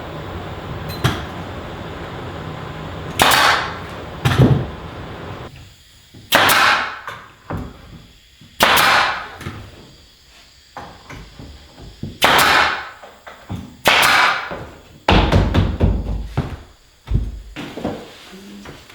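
Renovation tool work: about seven short, loud bursts, each under a second and spread a few seconds apart, with knocks and bumps between them. A steady background noise runs under the first few seconds.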